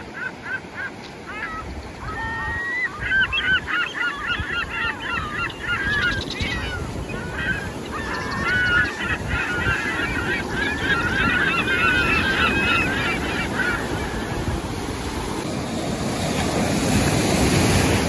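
A flock of birds calling, many overlapping calls, over the steady wash of surf breaking on the beach. The calls stop about fourteen seconds in, and the surf grows louder near the end.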